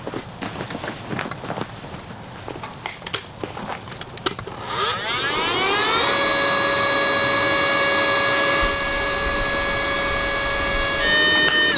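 A small electric motor spins up with a rising whine, runs at a steady high hum, and steps up slightly in pitch near the end. Before it starts there are a few seconds of light clicks and handling knocks.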